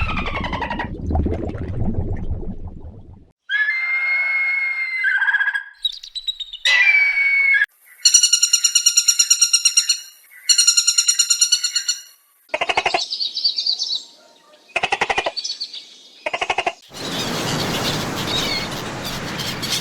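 A string of short animal-call clips played one after another, mostly bird-like chirps, falling whistles and harsh squawks, with a steady hiss in the last few seconds.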